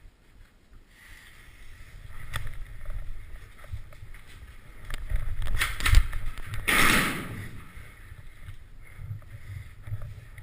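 Handling and movement noise on a body-worn GoPro camera: an uneven low rumble with scattered knocks and clicks, and a short loud rushing hiss about seven seconds in.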